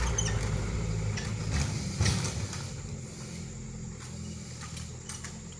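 Truck engine running with a low, steady hum that grows fainter, with a single sharp knock about two seconds in.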